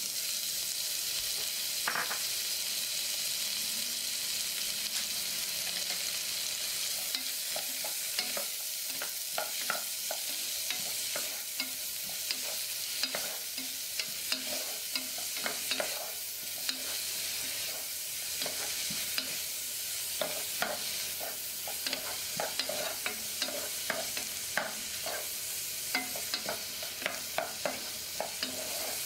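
Chopped scallions sizzling in hot oil in a pot: a steady frying hiss, with a wooden spatula stirring them and clicking and scraping against the pot, the clicks coming more often from about a quarter of the way in.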